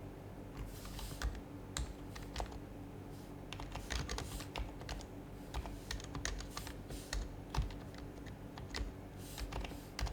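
Typing on an HHKB Professional HYBRID Type-S keyboard, whose silenced Topre electrostatic capacitive switches make the keystroke sound. The key presses come in irregular quick runs with short pauses, starting about half a second in.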